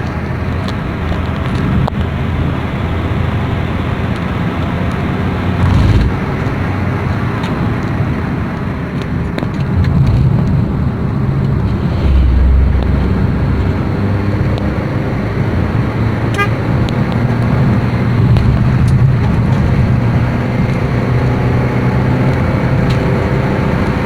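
Honda Brio Satya's 1.2-litre four-cylinder engine running while the car is driven, with tyre and road noise; the engine note climbs in pitch near the end as the car accelerates.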